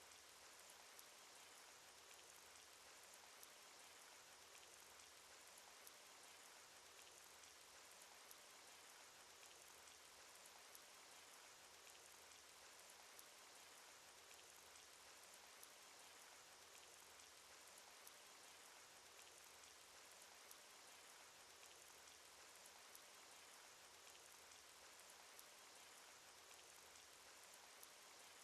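Cartoon rain sound effect: a faint, steady hiss of falling rain with many small scattered drop ticks, unchanging throughout.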